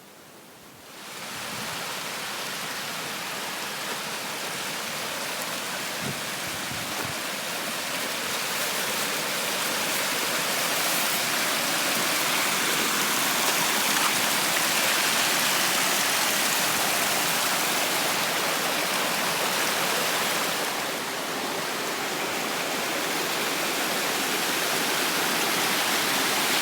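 A mountain creek rushing with a strong late-season flow. The steady sound of the water comes in about a second in, grows louder over the next several seconds, softens briefly about two-thirds of the way through, then picks up again.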